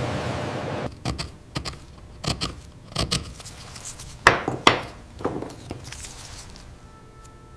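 Small metal hand tools clicking and scraping on a hard surface, in a string of sharp taps with a few longer scrapes in the middle.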